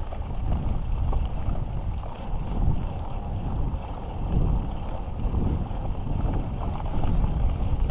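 Mountain bike riding a dirt trail: wind buffeting the microphone over the rumble and rattle of the bike, rising and falling in waves.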